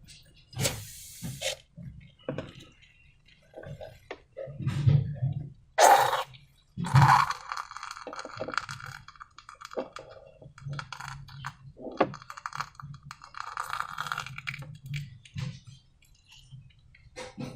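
Hands handling slime-making materials and containers: irregular clicks, taps and clinks, the loudest two about six and seven seconds in, with stretches of rustling between them.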